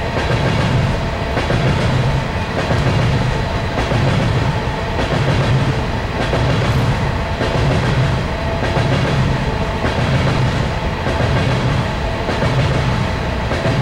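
Empty BNSF coal cars of a unit train rolling past, their wheels clacking over the rail joints in a steady rhythm of about one low clack-and-rumble a second.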